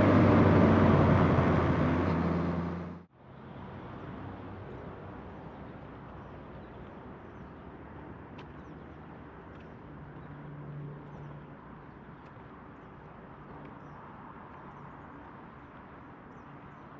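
Motorcycle engine running at a steady cruise, loud for about three seconds, then cutting off abruptly to a much quieter, muffled steady engine drone.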